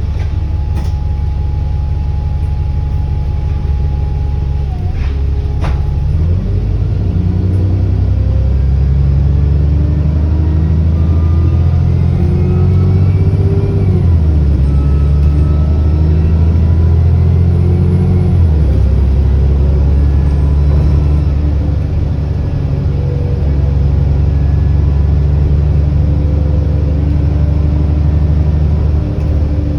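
Alexander Dennis Enviro400 double-decker bus engine, heard on board, accelerating. The engine note rises and then steps down three times as the automatic gearbox changes up, with a faint turbocharger whine over it.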